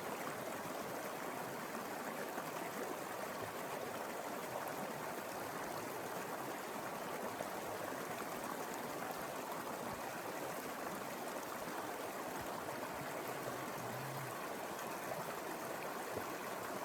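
Mountain river flowing over rocks: a steady rushing and babbling of water, even throughout.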